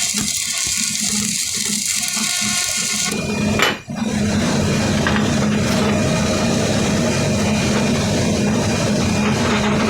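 Electric arc welding: the arc's steady crackling sizzle over a low hum, breaking off for a moment about four seconds in and then going on.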